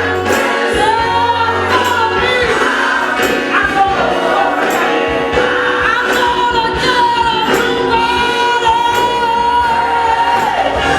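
Gospel choir singing with instrumental accompaniment and a light regular percussion beat, with long held notes.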